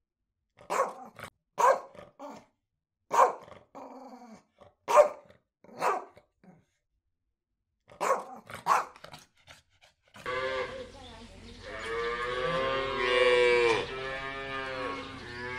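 A dog barking, about seven short sharp barks over ten seconds, then a cow mooing in a long drawn-out call that falls in pitch near the end.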